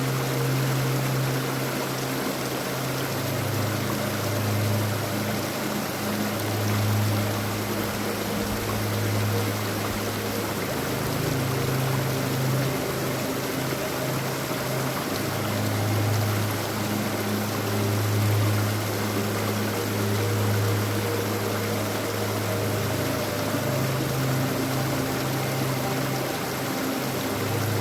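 River water rushing steadily, with a deep rumble underneath.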